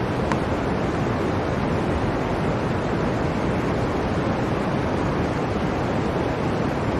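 Blizzard wind blowing in a steady, unbroken rush, deep and even in level.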